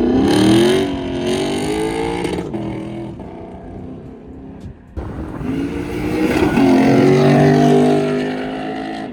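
Lexus RC F's 5.0-litre V8 revved through an opened-up exhaust with the muffler deleted. It is revved twice: the pitch climbs in the first second and settles back, then rises again from about halfway in.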